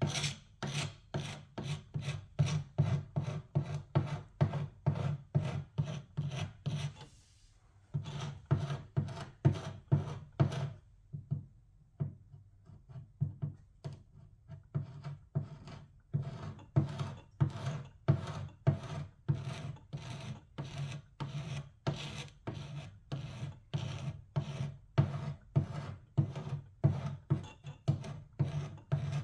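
Old paint and finish being worked off by hand with an abrasive or scraping tool: repeated rasping back-and-forth strokes, about two to three a second. There is a short pause about seven seconds in, and the strokes are lighter for a few seconds around the middle.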